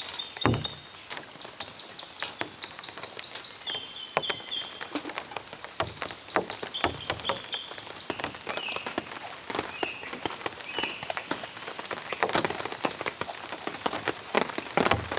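Rain drips pattering irregularly on a surface, with a bird calling in short, high whistled notes every second or so.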